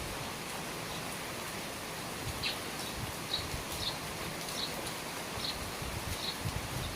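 Steady rain falling around the eaves of a house, with a few soft low drip thuds. From about a third of the way in, a small bird gives short chirps over and over, roughly one to two a second.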